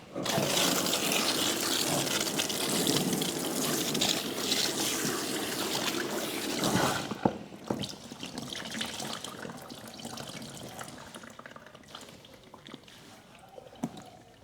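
Water running hard and splashing for about seven seconds, then shut off; after that, drips and small splashes trail away, with a few sharp clicks.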